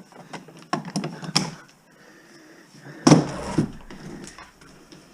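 Quick clicks and rattles of scrap being handled. About three seconds in comes a loud, heavy knock followed by a brief rattle.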